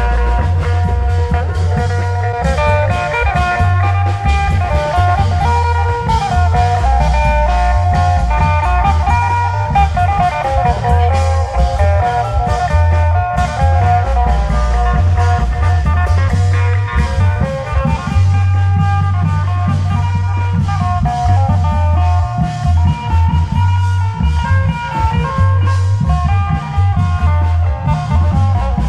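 Isan klong yao (long drum) procession band playing continuously: heavy, steady low drumming under a busy melodic line.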